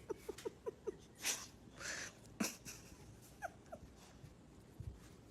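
A dog whimpering: a quick run of short, falling whines, about five a second, in the first second. Then a few breathy puffs and two more whines about three and a half seconds in.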